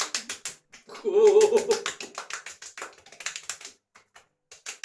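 Hands patting and slapping aftershave lotion briskly onto the face, a quick run of sharp pats with a short pause near the end. About a second in, a brief wavering vocal 'ooh' sounds over the pats.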